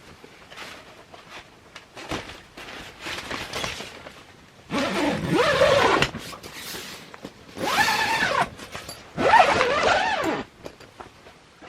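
Zipper of a canvas tent door pulled in three long strokes, each a rasp whose pitch rises and falls with the speed of the pull, after some softer scraping.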